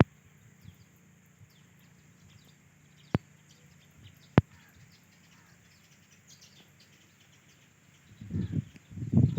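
Faint short bird chirps over a steady high hiss, broken by two sharp clicks in the middle; from about eight seconds in, loud, rough low rumbling bursts take over.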